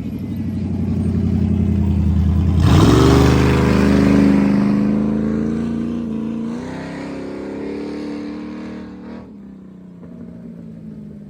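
An off-road race car's engine approaches and passes by at speed, its note shifting sharply about three seconds in at the loudest point, then fading as the car moves away.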